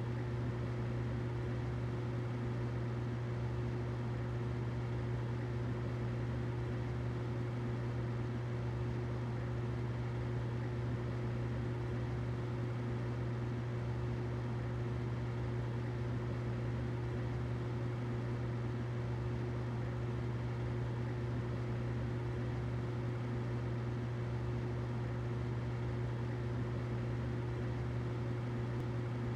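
Humidifier running, a steady low hum with an even hiss and a faint steady higher tone, unchanging throughout.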